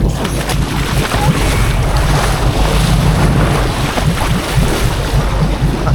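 Wind noise on the microphone over the wash of the sea around a fishing boat: a steady, loud noise with a low rumble.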